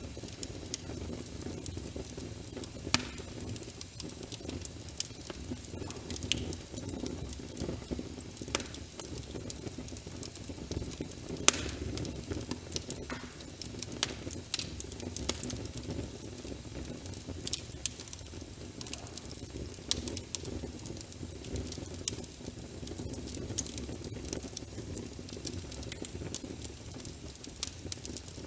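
Wood fire in a fireplace crackling, with irregular sharp pops and snaps over a steady low rush, mixed with steady rain. The loudest pops come about 3 and 11 seconds in.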